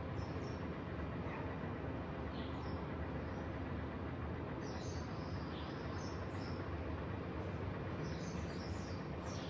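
Small birds chirping in short bursts every couple of seconds over a steady low background rumble.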